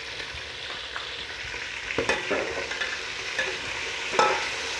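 Chicken and ginger-garlic paste sizzling in hot oil in a pot while being stirred and sautéed. The spoon scrapes and knocks against the pot a few times, the last knock near the end ringing briefly.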